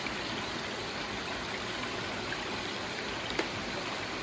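Steady rush of flowing stream water falling over rocks, with a single short click about three seconds in.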